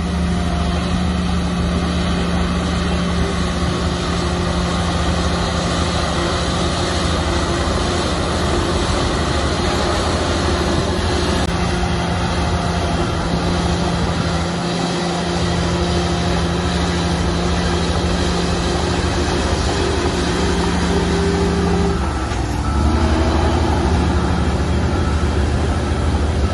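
Shantui bulldozer's diesel engine running steadily as the machine works. About 22 seconds in, the engine note dips briefly and then comes back a little louder.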